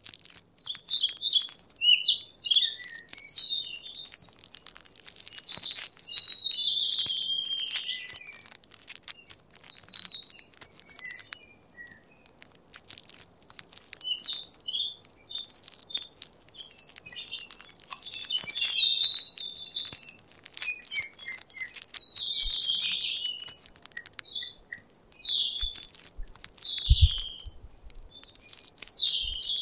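Songbirds chirping and warbling in groups of quick chirps and falling phrases, with short pauses between. A few soft low thumps near the end.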